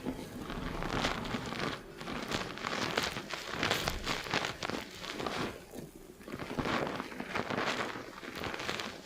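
Fingers scrubbing shampoo lather through hair and scalp: crackling, squishing foam in quick uneven bursts, with a brief pause about six seconds in.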